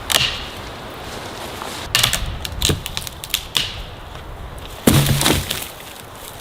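A series of sharp cracks and knocks: one at the start, a few more around two to three and a half seconds in, and the loudest cluster about five seconds in.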